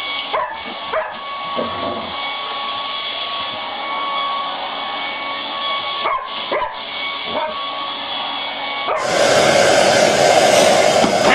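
Hair dryer blowing with a steady motor whine while a dog gives a few short yips and whimpers. About nine seconds in, a louder rush of dryer air takes over.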